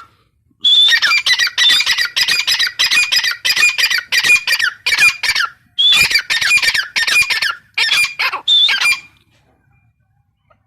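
Gray francolin (teetar) calling: a rapid string of harsh, high repeated notes, about three a second, in two long bouts with a short break near the middle, stopping about nine seconds in.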